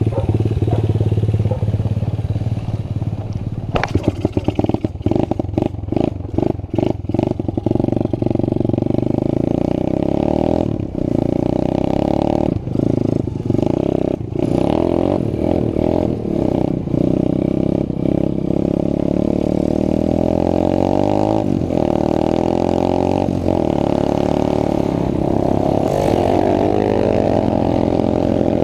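Small pit bike engine running after being started. It is blipped on and off the throttle in quick bursts through the first half, then runs more steadily.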